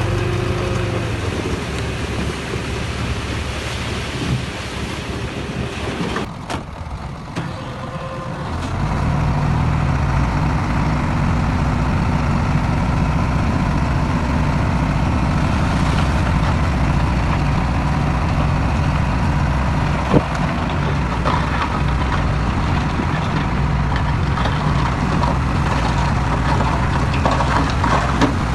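Heavy diesel earthmoving machinery running steadily; the engine note grows louder about eight or nine seconds in, as under load, and holds there. A single sharp knock sounds about twenty seconds in.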